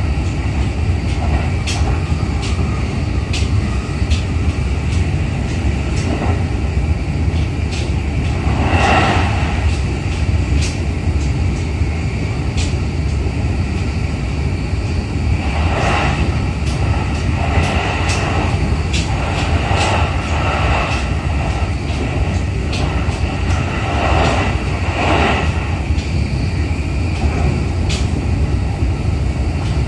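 Running noise inside a JR East E531 series electric train car: a steady low rumble of wheels on rail, with sharp clicks and knocks scattered through it and a few brief swells now and then.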